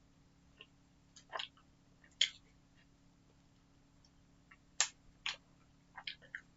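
Chewing jelly sweets: a handful of short, scattered mouth clicks and smacks over a faint steady hum.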